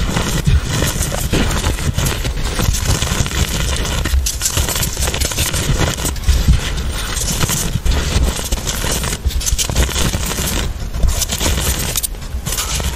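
Chalk being crushed and crumbled: a close, continuous run of crisp crunching and crackling, with a few brief pauses.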